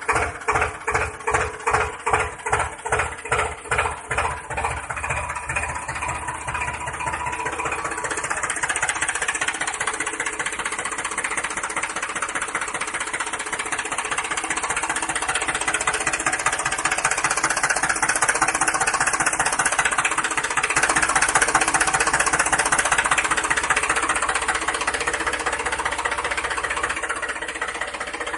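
A small motor-driven mechanism running, its rhythmic knocking speeding up over the first several seconds and then settling into a fast, steady chatter.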